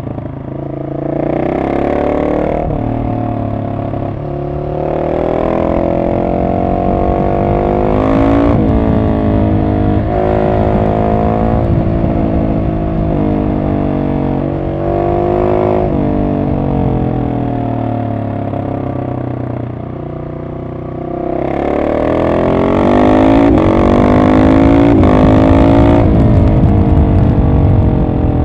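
Husqvarna 701 SM single-cylinder engine through an Arrow aftermarket exhaust, decatted, with the dB killer in, revving up and dropping back in pitch again and again under acceleration. It eases off about twenty seconds in, then pulls hard again, loudest a little later, and winds down in pitch near the end.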